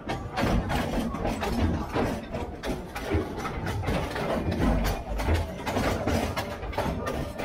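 Narrow-gauge diesel train running, heard from inside a carriage: wheels knocking and clattering irregularly over the rail joints and the carriage rattling, over a low rumble from the locomotive.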